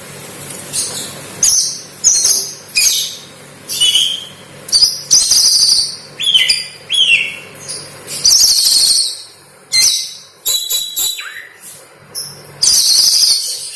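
Oriental magpie-robin (kacer) singing a lively string of short, loud phrases, mostly shrill, scratchy chatter copied from lovebird calls. A few clear whistles glide downward in between.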